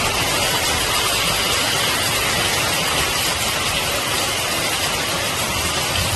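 Heavy rain pouring down, with water cascading off a roof edge and gushing from a gutter downpipe: a loud, steady hiss.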